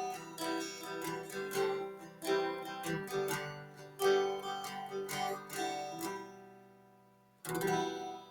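Background music on acoustic guitar: a run of plucked notes that fades out, then one final strummed chord near the end, left to ring and die away.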